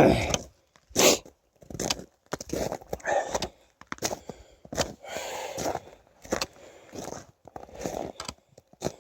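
Footsteps of a person walking through woods: irregular crunching and scraping steps, about one every half second to a second.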